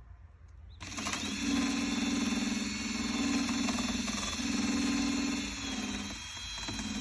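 Handheld power grinder starting abruptly about a second in and then running steadily with a high whine, grinding old paint off a steel van hood toward bare metal; its sound dips briefly near the end as the load changes.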